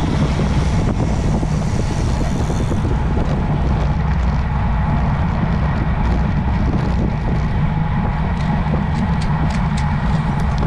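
Steady wind rush and road rumble on the microphone of a camera carried on a moving road bike, with a few short ticks near the end.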